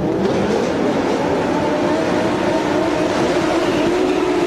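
Formula One car engine running steadily, its pitch wavering slightly up and down.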